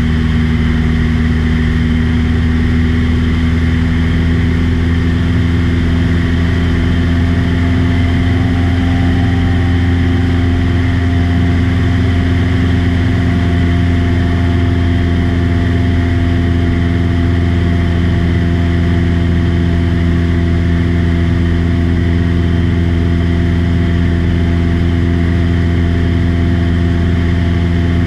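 A small aircraft's engine and propeller running steadily in cruise, heard on board: a loud, even drone with a deep hum that does not change.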